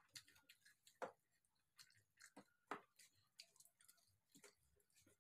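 Faint wet chewing and mouth smacks of a person eating rice with eggplant sambal: an irregular string of short clicks and smacks, the loudest about a second in and near the middle.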